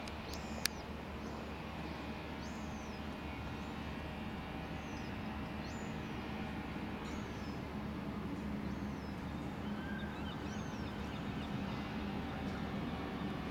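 A small bird chirping repeatedly, short high notes that slide downward about once a second, over a steady distant low rumble that grows a little louder toward the end. There is a single sharp click just under a second in.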